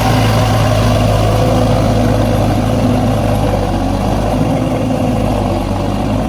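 Mahindra 605 DI-i tractor's four-cylinder 3531 cc diesel engine running steadily at idle, with no change in speed.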